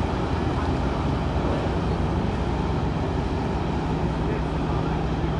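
Steady drone of a vessel's engine running, a low even hum that grows a little stronger near the end, over a constant rushing noise.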